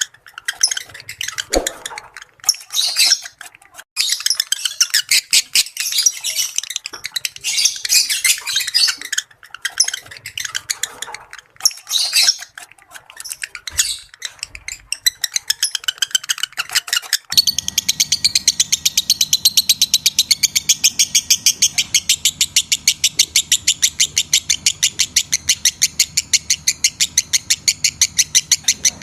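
Lovebirds chattering in a rapid, shrill, irregular stream of high-pitched calls. About two-thirds of the way through the sound switches abruptly to a fast, even run of repeated chirps, about four or five a second, over a faint steady hum.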